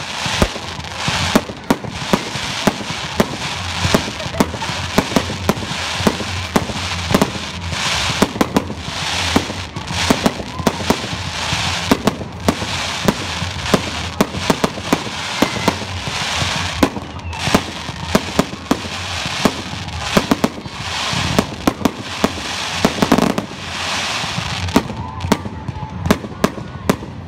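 Fireworks display going off: a rapid, continuous barrage of bangs and crackling bursts, many in quick succession.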